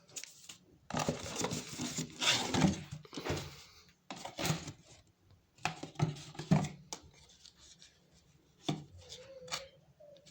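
Handling noises as an extractor fan and its packaging are moved about: irregular rustling, scraping and light knocks, with a brief squeak near the end. The fan is not running.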